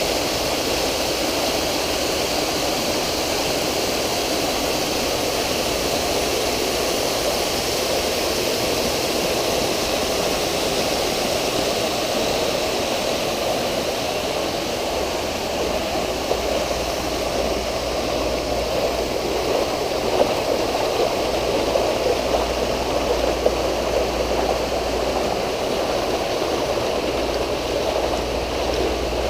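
Pool water features running: a steady rush of water falling and splashing into a swimming pool. A low rumble joins about halfway through.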